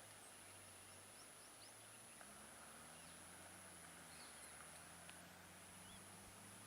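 Near silence: faint outdoor background with a steady high-pitched whine, a few faint chirps and a low hum that swells slightly about two seconds in.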